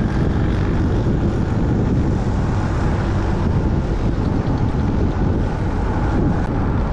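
Motorbike ridden at highway speed: steady wind rush over the microphone with the engine's drone underneath.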